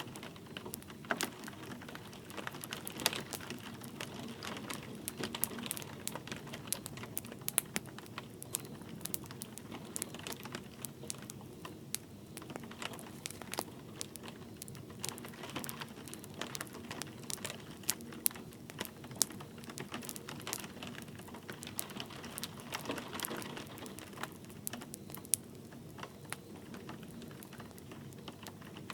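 Wood fire crackling in a fireplace, with irregular sharp snaps and pops, over a soft steady patter of light rain.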